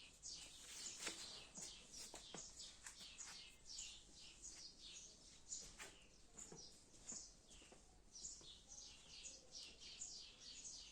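Faint chorus of small birds chirping, short high calls sliding downward several times a second, with a few light clicks.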